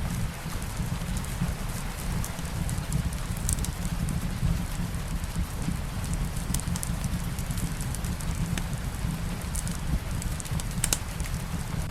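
Light rain falling steadily, mixed with a crackling wood fire: a constant hiss over a low rumble, with scattered sharp crackles and pops throughout.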